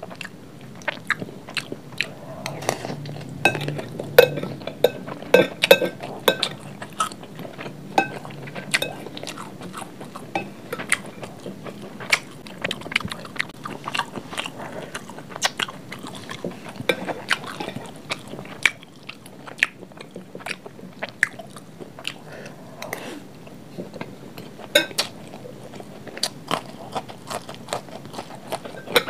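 Close-miked chewing of fried rice: an irregular, steady run of wet mouth clicks and smacks with some crunch. Now and then a metal spoon scrapes and taps the glass plate as it scoops.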